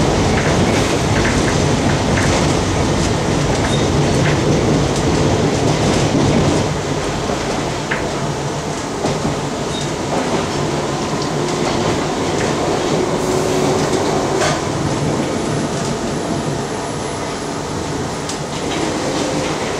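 District Line D Stock underground train running, heard from inside the carriage: a steady rumble of wheels on rail with scattered sharp clicks from the track. The rumble eases a little about six seconds in.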